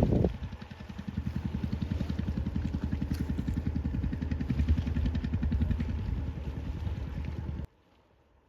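A motor engine running with an even, rapid low pulsing that cuts off suddenly near the end.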